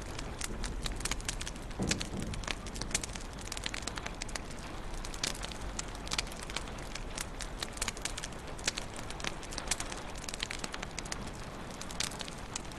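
Wood fire crackling in a fireplace: frequent irregular sharp pops and snaps over a steady soft hiss, with a brief low rumble about two seconds in.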